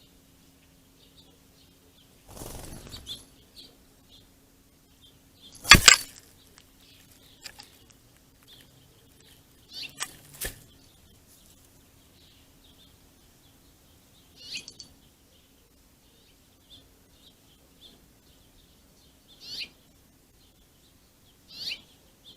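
A mixed flock of small seed-eating birds chirping with many short, faint calls, broken by several sudden bursts of wing flapping, the loudest about six seconds in. A few louder falling chirps come later.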